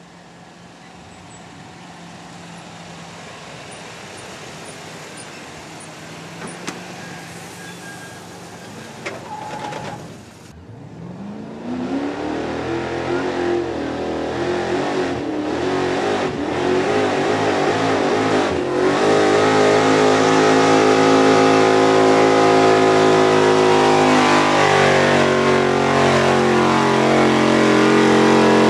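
A pulling vehicle's engine in a truck pull, faint at first, then revving up with rising pitch about a third of the way in. It then runs loud and steady at high revs under load for the second half.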